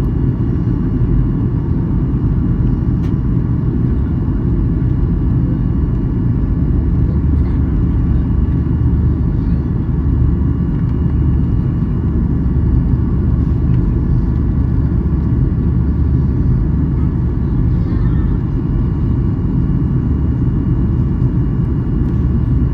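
Steady low rumble inside the cabin of a Boeing 737-800 airliner: engine and airflow noise heard from a seat near the wing, with a faint steady whine on top.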